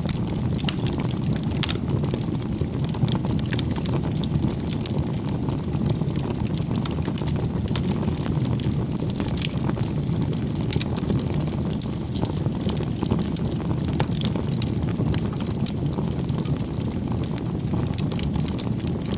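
Wood fire crackling: a steady low rush of burning with scattered sharp pops and crackles throughout.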